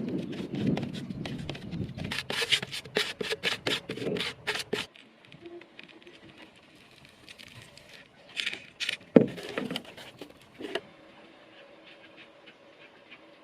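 A quick run of sharp taps and scraping for about five seconds, then a few scattered knocks, one sharper than the rest about nine seconds in.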